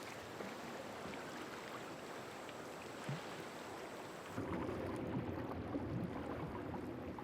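Steady ambient sound of shallow water. About four seconds in it changes abruptly to a lower, fuller rumble.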